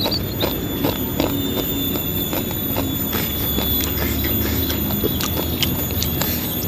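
Close-miked chewing of crunchy fried food, mouth closed: a run of small, irregular crisp crunches and clicks.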